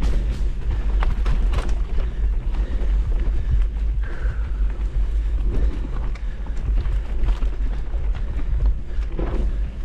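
Steady low rush of a waterfall, with scattered short knocks and rustles close to the microphone.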